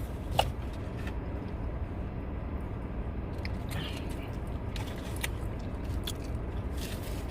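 Someone chewing and biting into food, with short crunchy clicks, over a steady low rumble inside the car.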